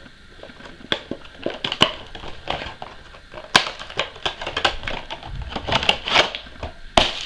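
Cardboard box and packaging being opened and handled by hand: a run of irregular clicks and taps with crinkling and rustling, busier in the second half.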